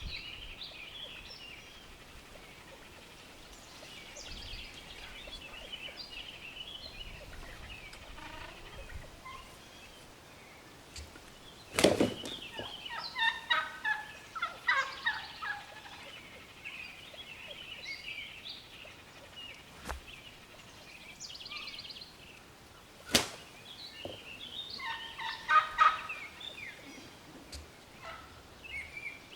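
Wild turkeys gobbling again and again, a strutting gobbler among a group of jakes, in several bursts of rapid, rattling calls. Two sharp knocks stand out, one a little before halfway and one about three-quarters through; the first is the loudest sound.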